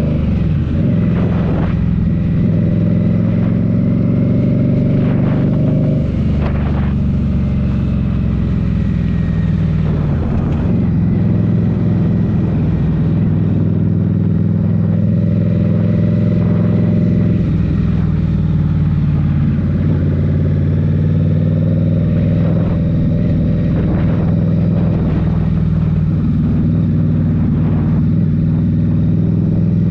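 2023 Indian Scout Rogue's 69-cubic-inch V-twin running under way through Rinehart slip-on exhaust. The engine pitch drops and climbs back up several times.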